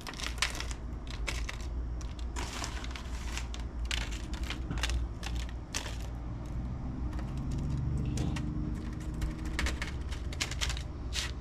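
Irregular crackling and rustling as leftover crunchy onion coating is shaken out of a plastic bag and sprinkled over chicken pieces on a baking sheet.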